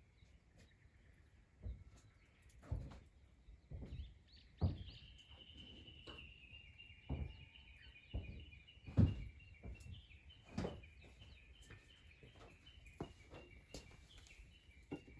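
Irregular dull knocks and thumps, a dozen or so, with a bird singing a long run of quick, short chirps that step slowly lower in pitch from about a third of the way in.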